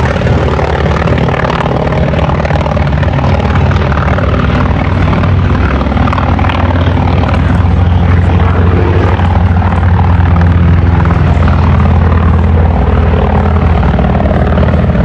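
Aircraft engine running loud and steady, a low hum with several steady tones that swells slightly midway.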